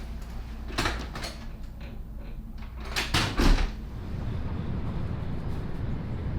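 A few knocks and clunks, the loudest a door slamming shut about three seconds in. From then on a steady low rumble, like a vehicle running.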